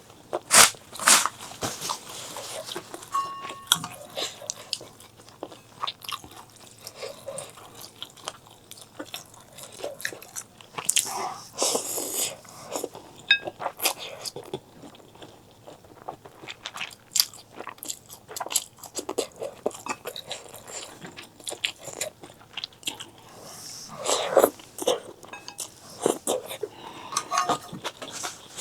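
Close-miked eating of instant noodles and grilled pork skewers: irregular biting and chewing with crunches and wet mouth sounds, and a few longer noisy bursts.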